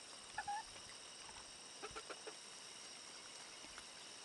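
Chickens clucking softly while feeding: a short two-note call about half a second in, then a quick run of short clucks around two seconds in.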